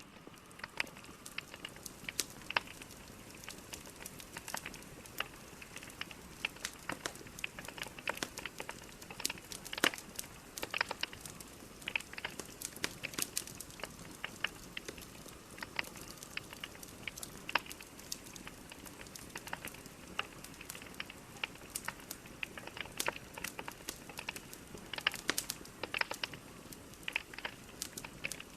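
Logs burning in a fireplace, crackling and popping irregularly over a steady soft hiss.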